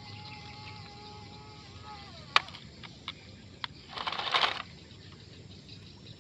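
The small electric motor of a toy remote-control dump truck whines steadily, then winds down in pitch about two seconds in. A sharp click follows, then a few lighter clicks and a short burst of rattling noise around four seconds in.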